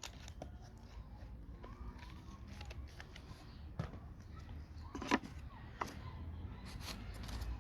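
Scattered light clicks and taps of a drill bit being swapped in a drill's chuck, with a few sharper knocks about four and five seconds in, over a low steady hum.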